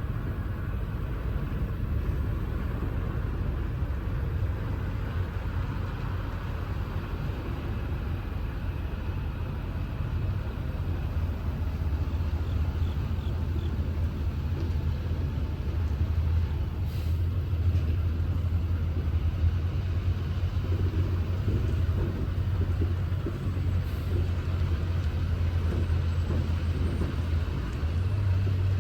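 Semi-truck's diesel engine running steadily under way with road noise: a continuous low drone, with a couple of faint brief ticks.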